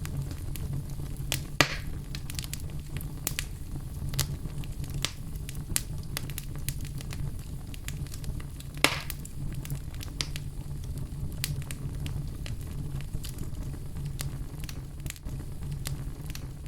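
Wood fire burning in a fireplace: a steady low rumble of flames under frequent sharp crackles, with two louder pops about a second and a half in and about nine seconds in.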